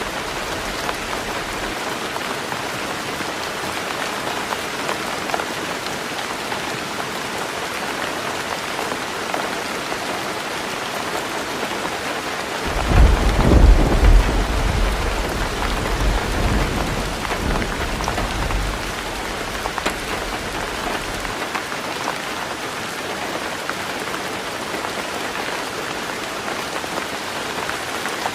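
Heavy rain drumming steadily on a tin roof. About halfway through, a clap of thunder rumbles loudly and dies away over several seconds.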